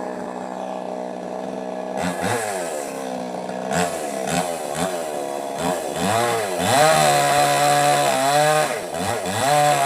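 Small two-stroke chainsaw running: idling steadily at first, then revved up and down over and over about once a second, then held at high revs for longer stretches near the end.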